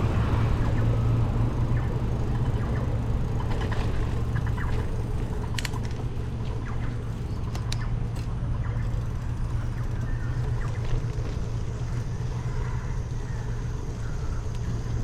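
A steady low rumble with a few sharp clicks, about five and a half and seven and a half seconds in.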